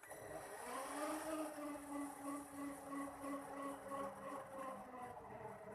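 Toy RC military helicopter starting its rotor: a helicopter start-up sound that rises in pitch over the first second, then settles into a steady, evenly pulsing whir.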